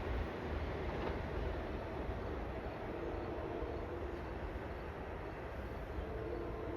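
Long Island Rail Road train passing on the tracks: a steady rumble that eases slightly toward the end.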